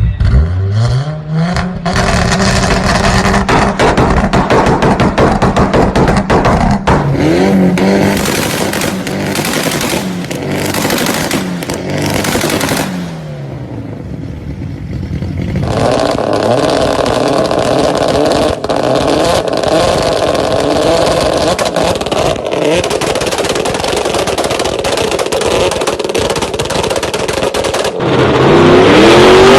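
Turbocharged high-performance car engines revving and accelerating hard. The pitch climbs at the start and holds high, falls away about thirteen seconds in, then another loud run follows.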